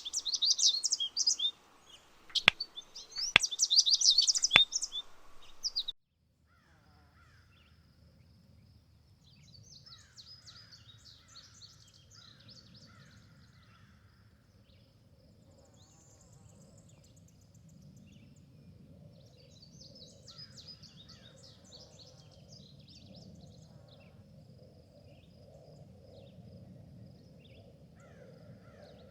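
Birds chirping, loud and dense for the first six seconds with three sharp clicks among them, then dropping to faint scattered chirps over a low steady rumble.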